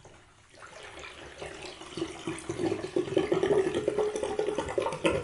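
Bathwater draining down the plughole, gurgling. It starts about half a second in and grows steadily louder as the drain draws air.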